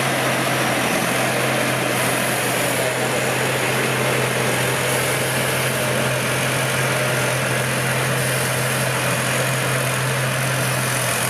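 A large rice combine harvester's Hino diesel engine running steadily, a constant low drone with machinery noise over it.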